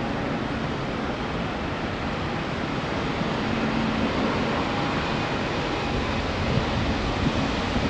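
Boeing 717 jet engines heard as a steady rushing noise with faint hums, getting a little louder about halfway through, mixed with gusty wind on the microphone.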